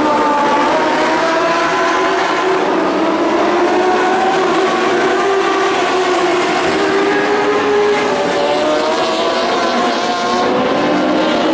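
Dwarf race cars' motorcycle engines running hard at racing speed, several engines at once, their pitches rising and falling as the cars lap.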